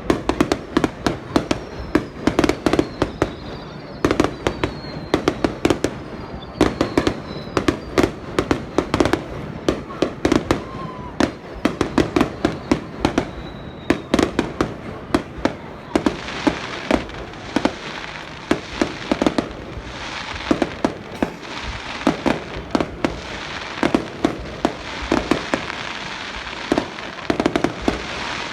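Fireworks display: aerial shells bursting in a rapid, continuous run of bangs, with a few faint falling whistles in the first half. From about halfway a dense crackling joins the bangs.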